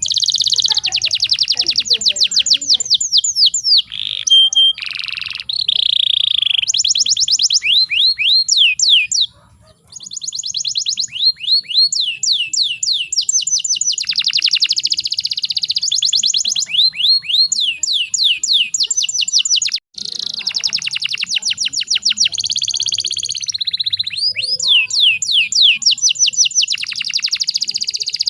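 Domestic canary singing long rolling trills of rapidly repeated, downward-sweeping high notes, with a few held whistled notes mixed in. The song breaks off briefly about ten seconds in and again about twenty seconds in.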